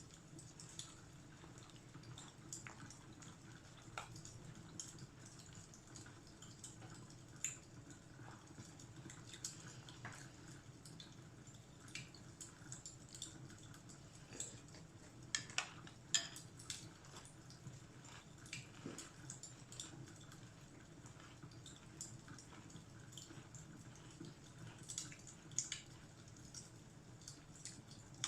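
Fireplace fire crackling quietly, with irregular small pops and snaps over a steady low rumble.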